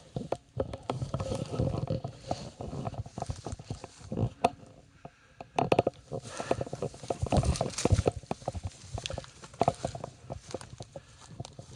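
Footsteps and scrambling over rock and ground: an irregular run of scuffs, knocks and clicks with low bumps, loudest in bursts a couple of seconds in and again in the middle.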